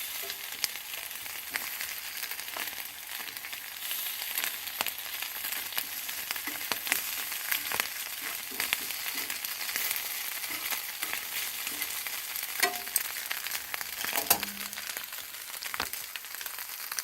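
Liver and garlic chive stir-fry sizzling in a hot frying pan: a steady frying hiss dotted with many sharp crackles.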